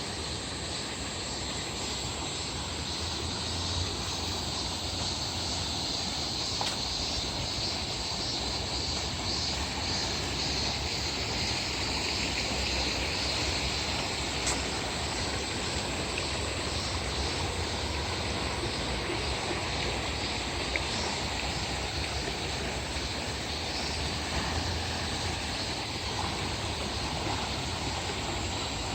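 Steady outdoor ambience: a constant rushing noise with a high, even drone of cicadas running through it.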